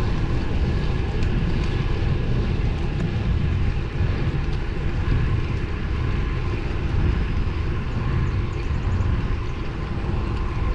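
Wind buffeting the microphone of a camera riding on a road bike, a steady low rumble with a lighter rush above it.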